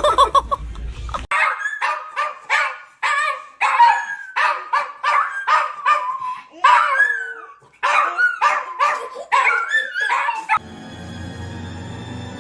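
A dog giving a quick run of short, high barks and whines that bend in pitch, one or two a second. Music starts near the end.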